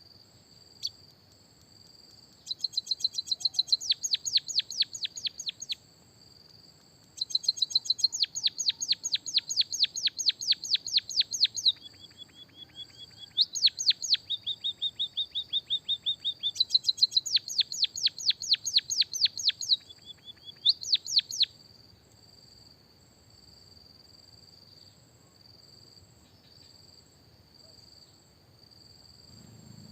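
A songbird singing rapid trills of falling notes, about six a second, in five bouts with short pauses, falling silent for the last eight seconds. A steady high insect-like drone runs underneath.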